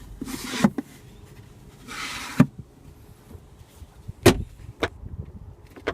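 Center storage compartment lid and armrest of a 2015 Lexus GX 460 being handled: two short brushing rubs in the first couple of seconds, the second ending in a click, then a few sharp clicks and knocks of the latch and lid.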